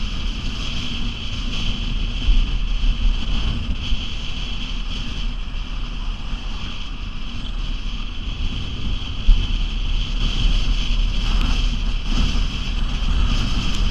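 Hurricane Maria's winds gusting hard, buffeting the microphone with a heavy rumble over a steady hiss.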